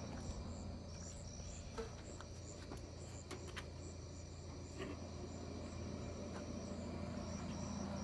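Crickets chirping in short, steadily repeating pulses, over a steady low hum and a few faint clicks.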